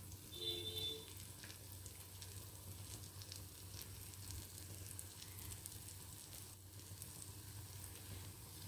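Besan-batter-coated bread slices frying in butter in a nonstick pan, a faint steady sizzle with scattered small crackles. A short squeaky sound comes about half a second in.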